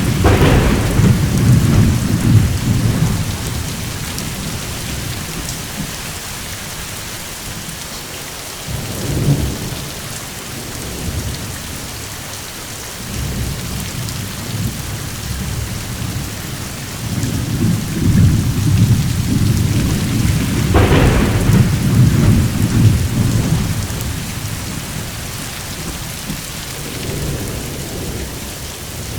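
Steady rain falling with rolling thunder: a thunderclap about 21 seconds in, a long low rumble at the start, and a softer one halfway.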